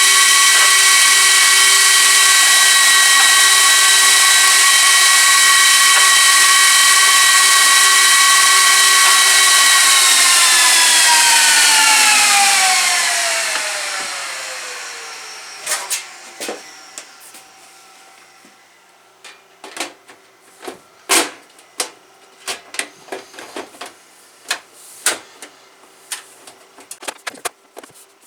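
Gigabyte R180-F34 1U server's cooling fans running flat out with a loud, high, steady whine, then spinning down, the whine sliding down in pitch and dying away over about five seconds from about ten seconds in. After that come scattered sharp clicks and knocks.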